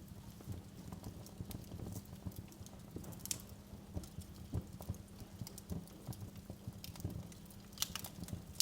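Wood fire crackling in a fireplace: irregular pops and snaps over a low rumble of the flames, with a few sharper snaps about three seconds in and near the end.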